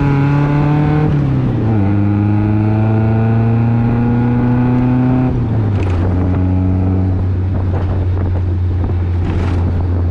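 Car engine running under way, heard from inside the car. Its note drops about a second in, holds steady, then falls to a lower steady note about five seconds in as the car slows.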